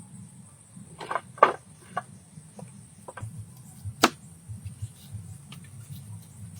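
Several short knocks about a second in, then a single sharp click about four seconds in, over a steady low hum.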